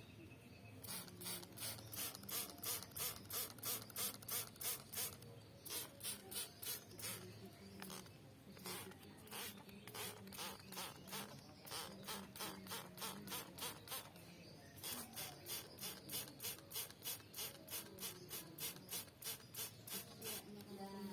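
White-rumped shama bathing in a water dish, splashing with quick wing flicks about four times a second in runs of several seconds, with short pauses between runs.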